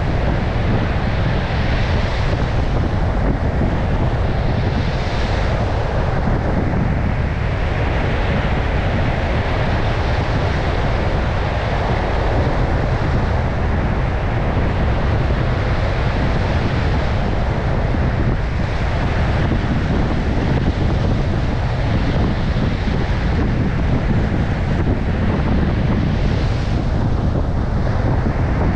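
Heavy surf breaking and washing on a beach in strong wind, a continuous dense rush with waves swelling every few seconds. Wind buffets the microphone, adding a deep rumble.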